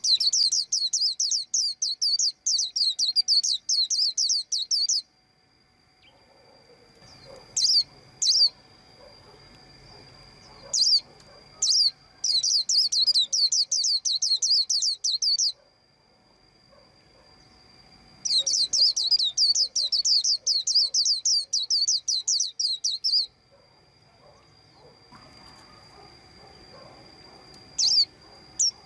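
A white-eye chirping: fast strings of high, quick chirps in bursts of three to five seconds, three times, with a few single chirps in the pauses between them.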